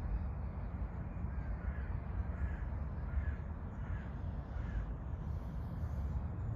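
A bird gives five short calls, about three-quarters of a second apart, over a steady low rumble.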